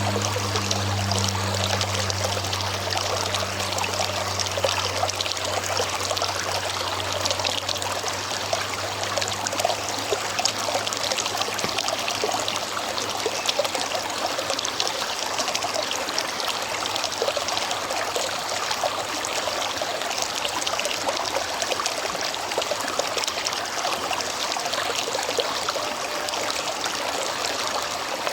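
River water flowing with a steady rushing and trickling. A low hum underneath fades out over the first several seconds.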